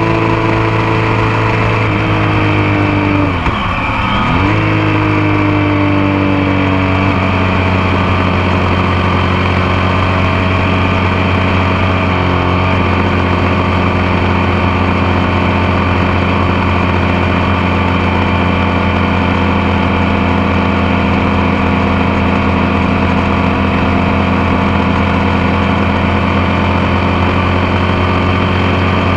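Motorcycle engine running steadily at riding speed, picked up close by a camera on the passenger foot peg. About three seconds in, the engine note briefly drops in pitch and level, then comes back and holds steady.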